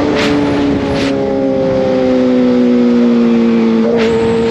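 Kawasaki ZX6R inline-four sport-bike engine running steadily at high revs under way, its pitch sagging slowly, over a haze of wind noise. Short rushes of noise come near the start and again near the end.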